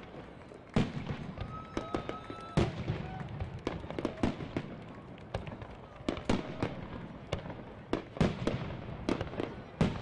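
Aerial firework shells bursting in a rapid, irregular string of sharp bangs, about two a second, the loudest about two and a half seconds in.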